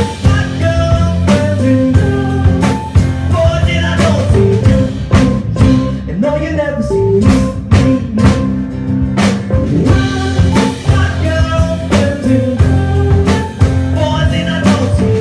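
Rock band playing live with guitar, bass, keyboard and a drum kit keeping a steady beat.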